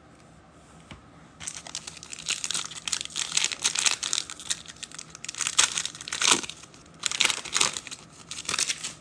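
Foil trading-card pack being torn open and its wrapper crinkled, in a run of uneven crinkling and ripping bursts that starts about a second and a half in.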